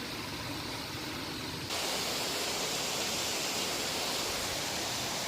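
Steady rush of a waterfall and a river running high and fast after heavy rain. The sound gets suddenly louder and brighter about two seconds in.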